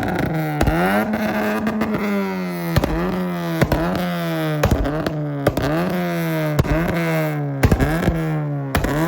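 Car engine revved over and over, about once a second: each blip rises quickly and then falls back, with sharp pops and cracks as the revs drop.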